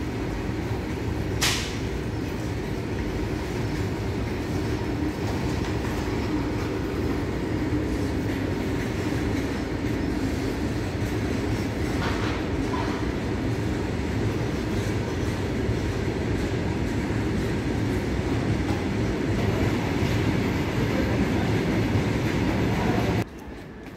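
Freight train of open-top wagons rolling past on the adjacent track: a steady rumble and clatter of wheels on the rails. There is a short sharp metallic sound about a second and a half in. The sound drops away suddenly near the end.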